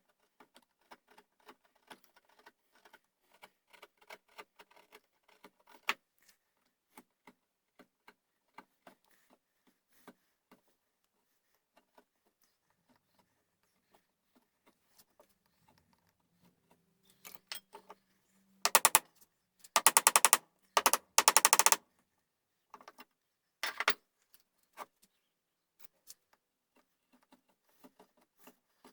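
Light scattered taps and clicks, then four short loud bursts of rapid rasping strokes and one more a little later, from a hand tool working the gunstock while the buttplate is fitted.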